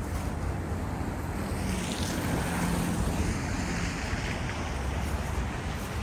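A vehicle passing on a slushy street: the swish of its tyres rises and fades over a few seconds, with a faint engine hum, over a steady low city rumble.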